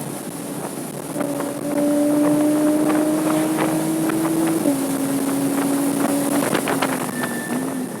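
Porsche 987.2 Cayman S's 3.4-litre flat-six at speed on track: quieter for the first second, then pulling hard with slowly rising pitch, dropping in pitch at an upshift about halfway through, and easing off near the end. Wind noise throughout, and a thin high steady squeal comes in near the end.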